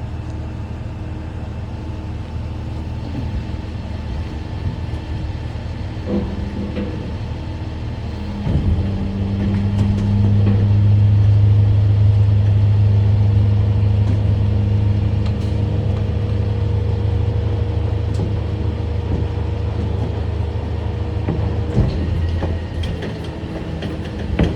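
Catering truck's engine running with its PTO-driven hydraulic system working as the box structure is driven forward. About eight seconds in, the drone grows louder and heavier under load and holds until near the end, with a few knocks along the way.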